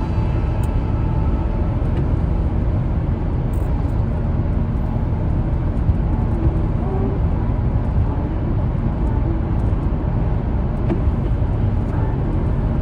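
Car driving on a wet road, heard from inside: a steady low rumble of road and engine noise.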